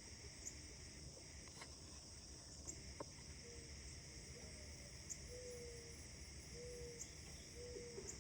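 Faint outdoor morning ambience of distant birds calling over a steady background hiss. A short high chirp repeats about every two seconds, and three brief low whistled notes come in the second half.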